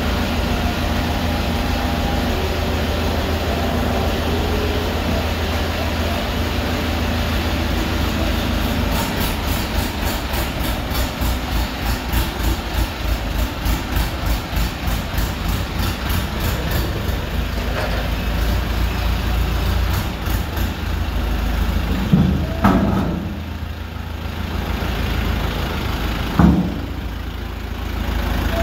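Tractor engine running steadily, with a rhythmic pulse in its note through the middle stretch and two short, sharp louder sounds near the end.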